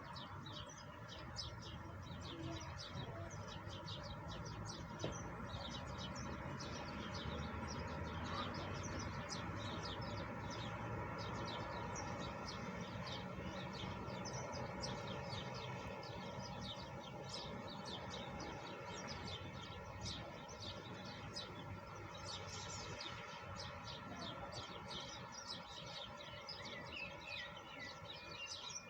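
Many small birds chirping rapidly and continuously over a steady hiss of falling rain.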